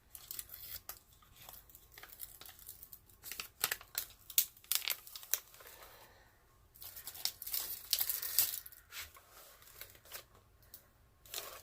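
Clear plastic cover film on a diamond painting canvas crinkling and crackling as it is handled, in two busier spells with a short lull about six seconds in.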